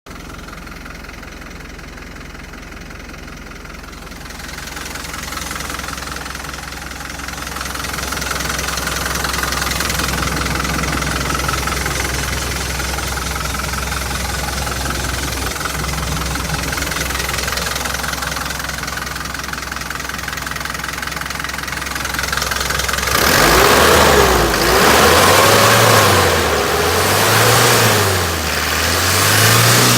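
Hino Dutro truck engine idling steadily, then revved up and down several times from about 23 seconds in.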